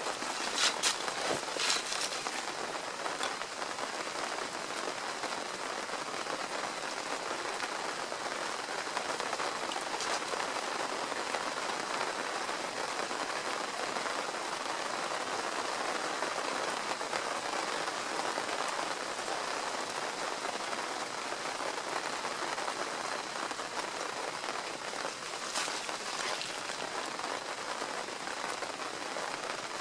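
Steady rain falling, with a few sharper drop ticks in the first couple of seconds and again about 25 seconds in.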